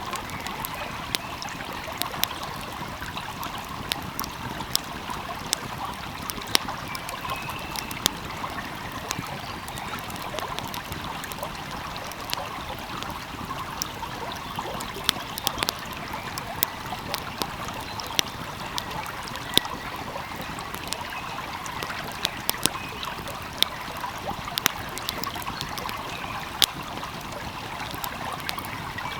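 Wood fire crackling, with irregular sharp pops, over the steady rushing trickle of a small flowing stream.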